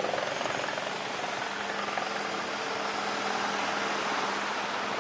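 Aircraft engine running steadily: a continuous rushing noise with a low, even hum beneath it.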